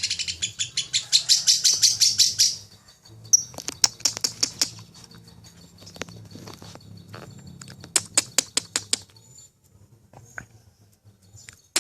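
Lovebird giving its long 'ngekek' chatter, a rapid run of shrill repeated notes that breaks off about two and a half seconds in. It is followed by scattered short chirps and clicks, with another quick burst of clicks near the two-thirds mark.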